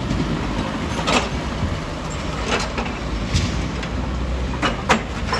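Heavy quarry machinery running with a steady low rumble, broken by about five sharp knocks of rock and metal.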